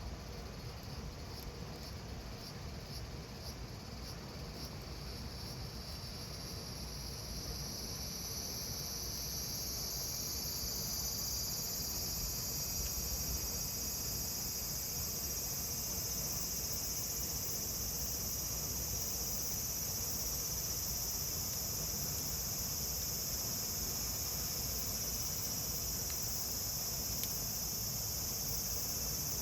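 Summer cicadas calling in a high buzz, pulsing for the first few seconds, then swelling over several seconds into a steady, louder drone.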